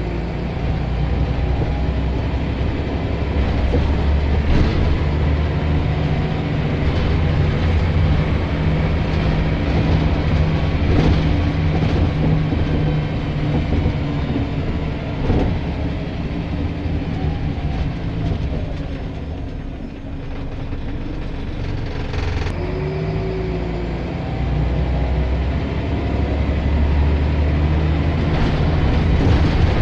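Scania L94 bus's diesel engine running under way, with knocks and rattles. The engine note falls away to its quietest about two-thirds through, then builds again.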